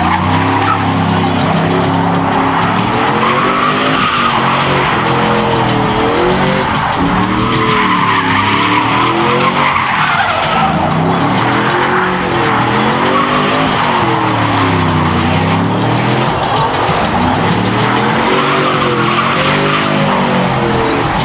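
A truck doing a burnout: its engine is revved up and back down again and again, over the steady hiss and squeal of spinning tyres.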